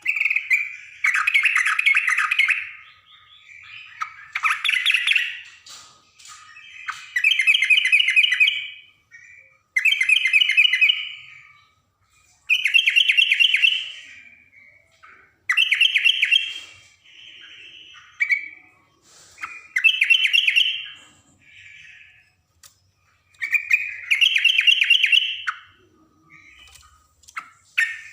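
Yellow-vented bulbul (trucukan) singing loud, rapid chattering phrases, each one to two seconds long, repeated every two to three seconds with softer notes between them.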